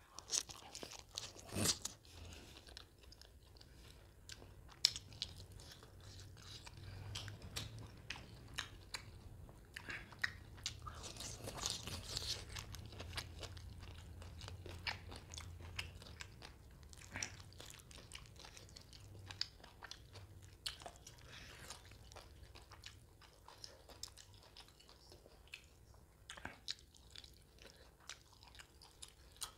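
Close-up sounds of a person biting and chewing mutton curry and curry-soaked roti, with many short sharp clicks throughout.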